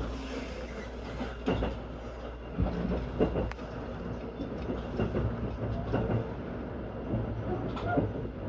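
Inside a JR 255 series limited express car, the train runs with a steady low rumble and irregular clicks and knocks from the wheels passing over rail joints and points as it pulls into a station.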